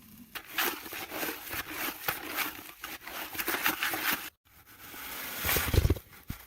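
Gritty scraping and crunching of a shovel digging into soil and gravel for foundation holes. After a break, a few heavy low thuds come near the end.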